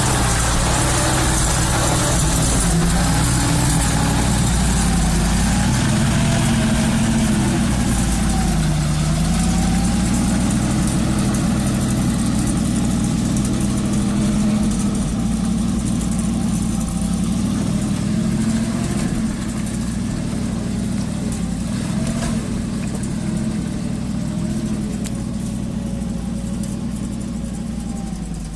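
GAZ-66 truck engine running, its revs rising and falling unevenly as it works; it grows somewhat quieter about two-thirds of the way through.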